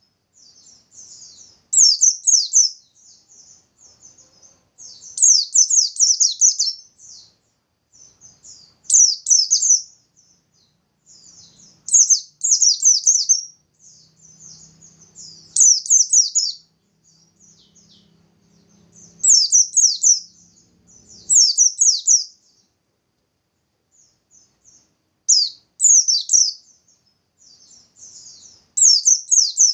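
Pleci (white-eye) singing its 'nembak' song: loud bursts of rapid, high-pitched trilled notes, each about a second long and repeated roughly every three seconds, with soft twittering in between. This is the song bird keepers use as a lure to set other white-eyes singing.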